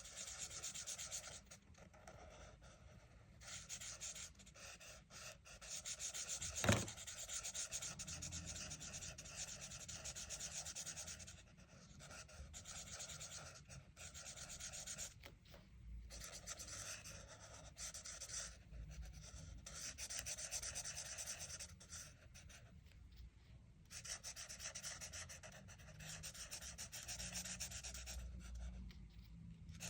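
Colouring strokes rubbing and scratching across a paper colouring-book page, in runs of a few seconds with short pauses between them. A single sharp click about seven seconds in is the loudest sound.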